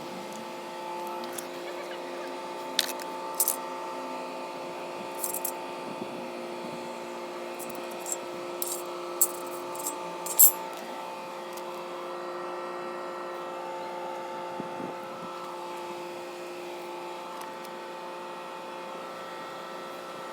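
Steady mechanical hum of several tones, with a few sharp clicks and knocks in the first half.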